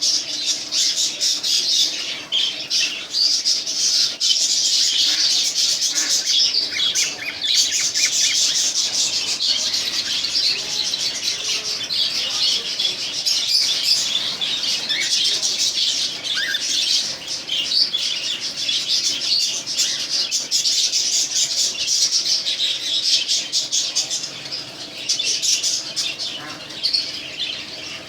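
A flock of pet cockatiels chirping and squawking without a break, many short, high calls overlapping.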